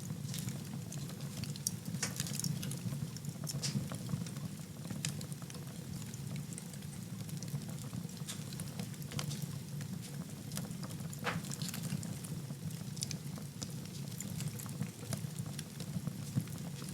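Wood fire burning in a fireplace: a steady low flame noise with scattered, irregular sharp crackles and pops from the burning wood.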